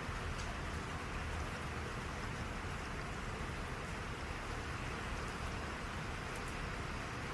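Steady rain, a continuous hiss with faint scattered drop ticks.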